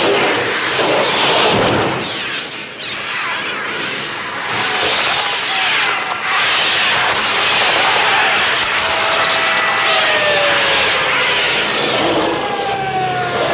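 Dense, loud sound effects of a massed seagull attack: screeching birds and rushing wingbeats, the film's electronically made bird sounds. Several long, slowly falling cries come in over the din in the second half.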